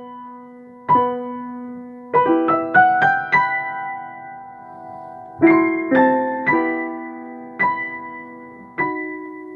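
Piano played four-hands in a slow passage: separate notes and chords struck a few at a time, each left to ring and fade before the next.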